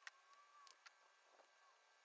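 Near silence: faint room tone with a few soft clicks and a faint wavering whistle-like tone.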